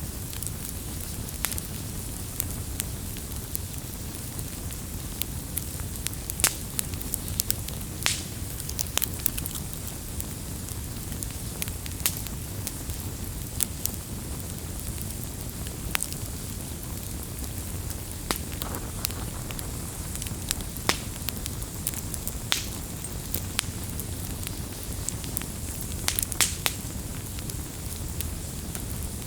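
Wood campfire burning: a steady low rush of the flames with irregular sharp crackles and pops from the burning wood.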